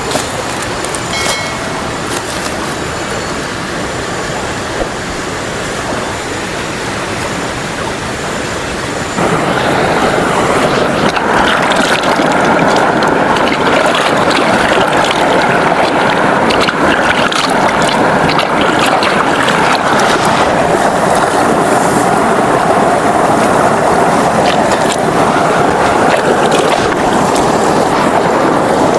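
Rushing water of a jungle waterfall or stream, a steady noise that gets louder about nine seconds in and then holds.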